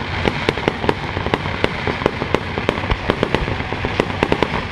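Aerial fireworks shells bursting in quick, irregular succession: several sharp bangs a second over a continuous rumble.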